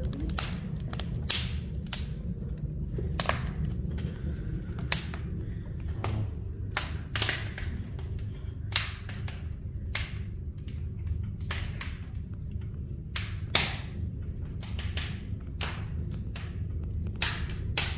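Firewood fire crackling: irregular sharp pops and snaps over a steady low rumble.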